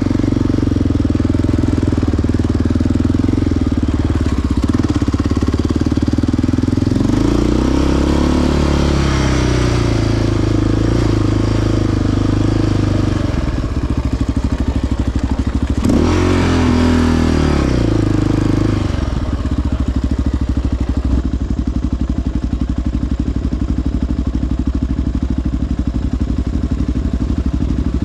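Single-cylinder four-stroke sport ATV engine running at low trail speed, revved up and back down twice, about a quarter of the way through and again just past halfway.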